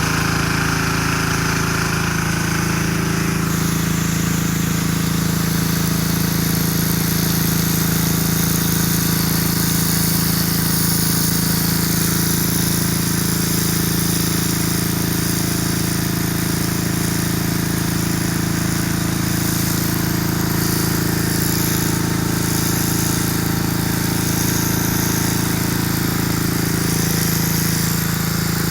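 Diesel engine of a car-washing pressure-washer set running steadily at a constant speed.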